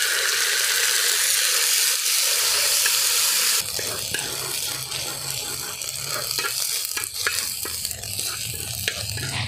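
Freshly ground ginger-garlic paste sizzling as it hits hot sesame oil with mustard seeds, curry leaves and green chillies in an uruli. About three and a half seconds in, the hiss drops and a metal spoon stirs and scrapes the paste around the pan, with small ticks.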